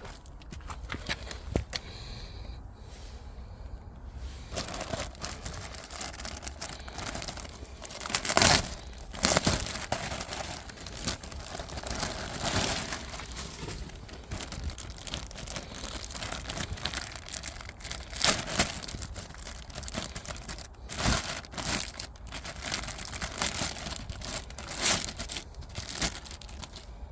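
Crinkling and rustling of a cabin air-conditioning filter and its plastic wrapping being handled, in irregular bursts with several louder crackles.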